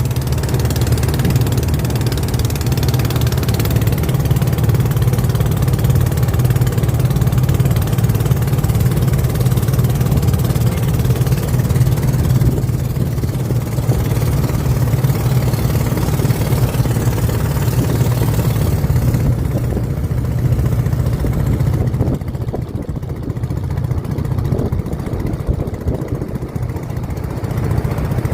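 Motorboat engine running steadily with a low drone, easing slightly in the last several seconds.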